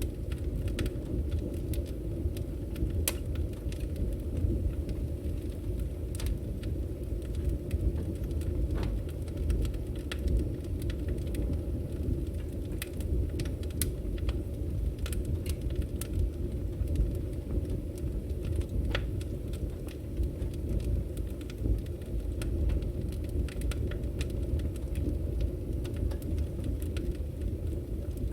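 Firewood burning: a steady low rumble of flames with irregular sharp crackles and pops scattered throughout.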